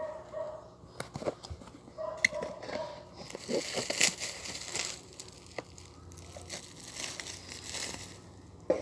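Packaging crinkling and tearing as a parcel is unwrapped, with scattered clicks and two longer stretches of rustling.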